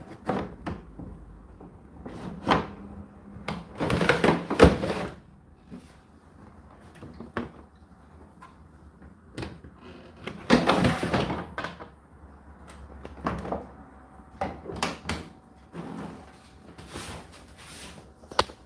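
Irregular clunks, clicks and scrapes of a tumble dryer's door and plastic fittings being handled, opened and shut, with a few longer scraping or rustling stretches.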